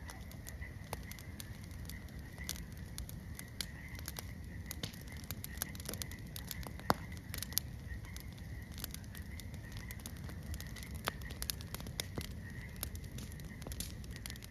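Fire crackling: many sharp, irregular pops and snaps over a steady low rumble, with a faint steady high tone underneath.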